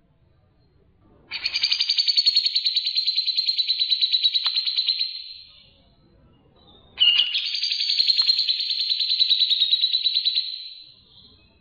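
A songbird giving two long, rapid chattering trills, each lasting about four seconds: the first starts about a second in, the second about seven seconds in.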